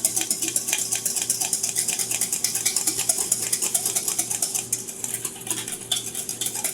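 A whisk beating a stir-fry sauce of water, cornstarch and soy sauce in a bowl: a fast, steady clicking of the wires against the bowl.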